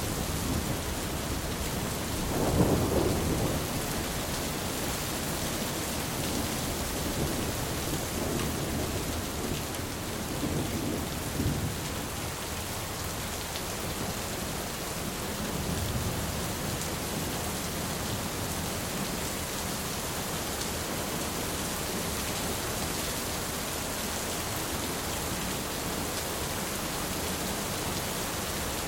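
Steady rain with low rumbles of thunder: the loudest rumble swells a couple of seconds in, followed by several softer rolls over the next quarter minute.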